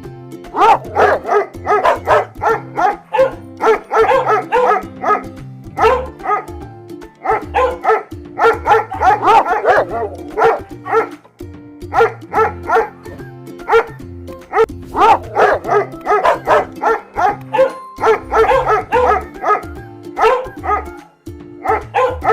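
A dog barking over and over in quick runs, with short pauses between runs, over background music with a steady bass line.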